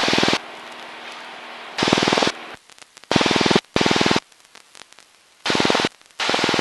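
Light aircraft engine and cockpit noise through the headset intercom, cutting in and out abruptly in about five half-second bursts of loud, hissy, pulsing noise. Between the bursts there is a quieter steady hum.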